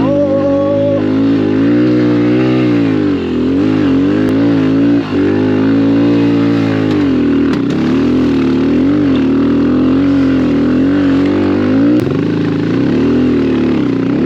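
Small single-cylinder 110cc pit bike engine being ridden hard through loose sand, its revs rising and falling over and over as the throttle is worked.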